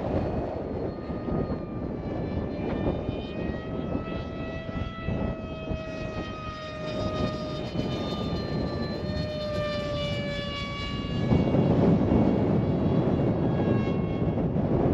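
Electric motor and propeller of a ZOHD Alpha RC plane in flight, a steady hum whose pitch drifts slowly down. About eleven seconds in it gives way to a louder rushing of strong wind on the microphone.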